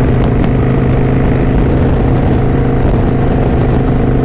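Kawasaki Vulcan VN900 Classic LT's V-twin engine running at a steady cruising speed, with wind noise on the microphone.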